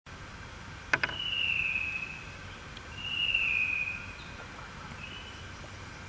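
A bird whistling: two long, clear whistles of about a second each, each falling slightly in pitch, then a short one near the end. A sharp click about a second in, just before the first whistle, is the loudest thing.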